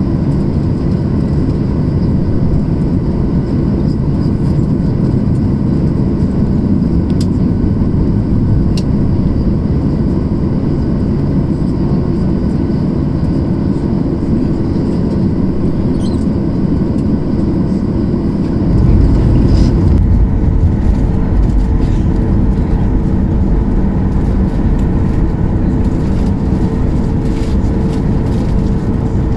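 Boeing 737-800's CFM56 jet engines and airflow heard from inside the cabin: a steady hum and rush with a few held tones. About two-thirds of the way in it grows louder with a deeper rumble, and a new steady tone enters soon after.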